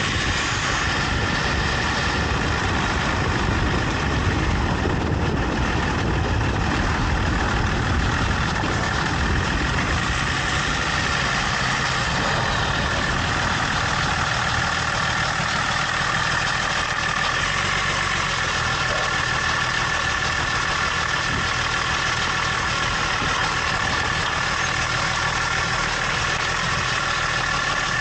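Range Rover L322 running, with steady engine and road noise. The clicking of its failing CV axle does not come through clearly.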